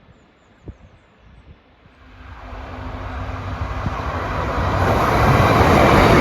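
Northern Class 156 diesel multiple unit approaching along the line. Its diesel engine hum and wheel and rail noise grow steadily from about two seconds in, loudest near the end.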